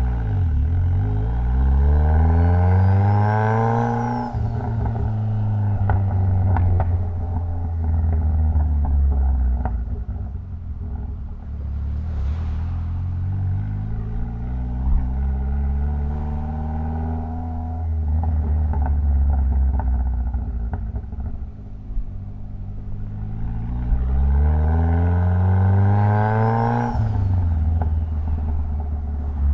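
Mitsubishi Lancer Evolution X's turbocharged 2.0-litre four-cylinder pulling hard, its pitch rising with a faint rising whistle, then falling sharply about four seconds in. It then runs at a steadier pitch with a few sharp cracks, and near the end pulls hard again before the pitch drops off suddenly.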